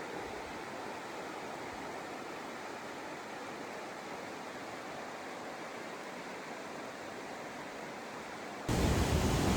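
A steady, even rushing noise with no distinct events; near the end it jumps abruptly louder and deeper.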